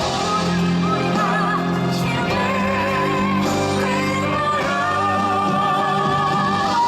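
Singing from a Korean stage musical with instrumental accompaniment: the voice holds long notes with a wavering vibrato over sustained accompanying chords.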